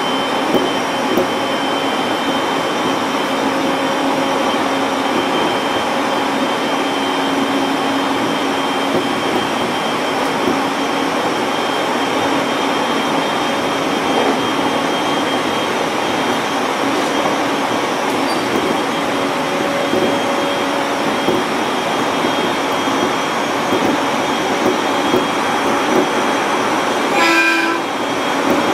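701-series electric train running steadily along the line, with an even rolling noise of wheels on rail. About a second before the end, it sounds a short horn blast.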